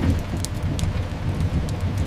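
Layered sleep ambience: steady rain over a low rumble, with a few sharp crackling pops from a fireplace.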